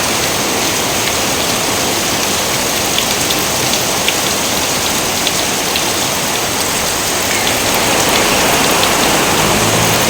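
Steady rain falling, with scattered single drops ticking sharply through the hiss. A faint low droning tone comes in near the end.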